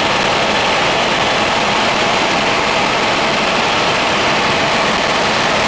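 Helicopter in flight: a loud, steady rush of engine and rotor noise that does not change.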